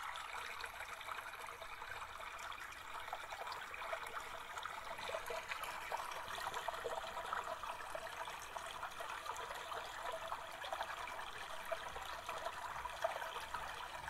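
Steady sound of flowing water.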